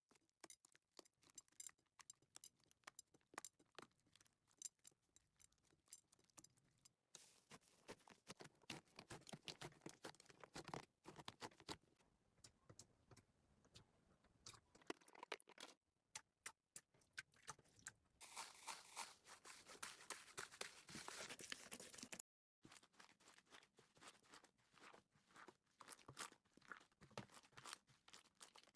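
Slime being squished and pressed by hand: a quiet, fast run of small clicks, pops and crackles in several short clips cut together, with a denser crackling stretch about two-thirds of the way through.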